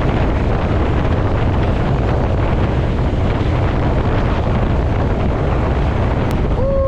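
Steady, loud wind buffeting on the microphone of a camera mounted on a motorcycle riding at speed, with road and engine noise underneath. Near the end a short pitched sound slides down in pitch.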